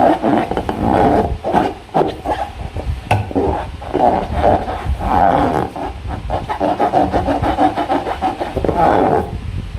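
Transparent rubber balloons and slime being squeezed and rubbed by hand: a dense run of rubbery squeaks and sticky crackles with brief pauses.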